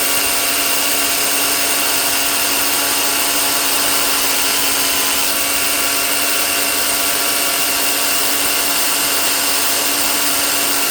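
Milwaukee electric chainsaw running its .325 race chain backwards against a grinding stone, a steady motor whine over a grinding hiss. The stone is evening up the cutter teeth so that every tooth cuts to the same height.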